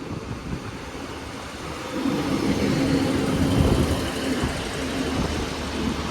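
A pair of Class 150/2 diesel multiple units running into the platform: steady engine drone and wheel noise, growing louder about two seconds in.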